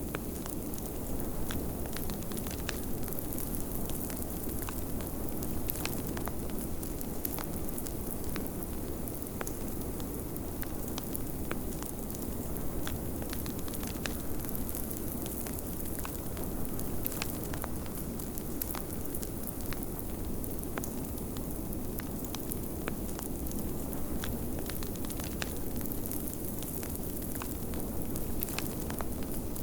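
Wood fire crackling with frequent small, irregular pops over a steady low rush of blizzard wind.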